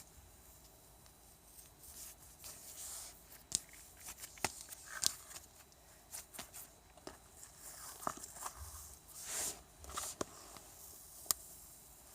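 Scattered sharp clicks, taps and short rustles of objects being handled, at irregular intervals.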